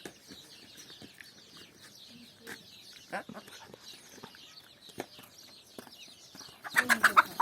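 Chickens clucking, with many short high chirps throughout and a louder burst of clucking calls near the end.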